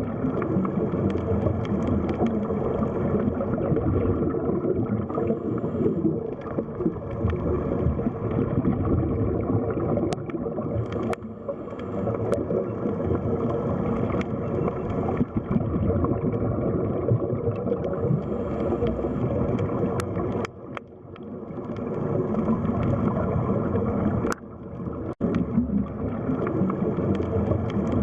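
Underwater ambience: a dense, low rush and gurgle of water, with a few sharp clicks and two brief dips in level in the second half.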